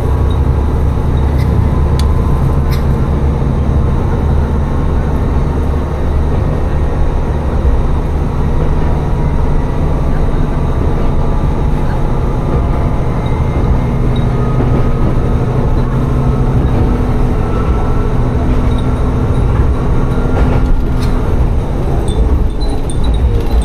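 Diesel railcar running along the line: a steady engine drone with rail and wheel noise, and a faint whine that climbs slowly through the middle of the run.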